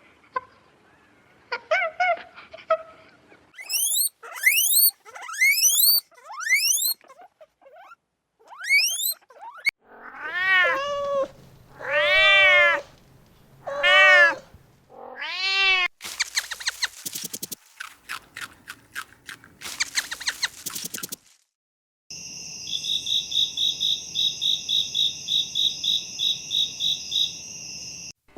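A run of animal calls: high rising peeps, then four drawn-out kitten meows, each rising then falling in pitch, followed by a rapid buzzy rattle and, near the end, a high pulsing chirr.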